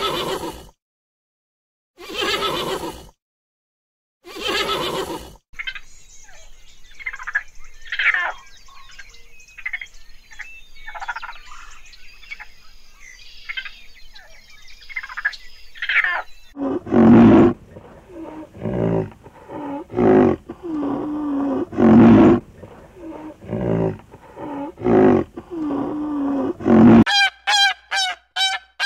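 A run of animal calls: three horse whinnies, then about ten seconds of high, squeaky raccoon chatter, then about ten seconds of another animal's repeated low calls, and near the end fast, evenly repeated honking from a swan or goose.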